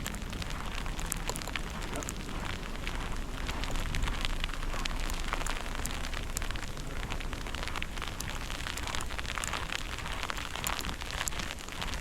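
Storm wind rumbling on the microphone, with a steady, irregular crackle of fine ticks over it.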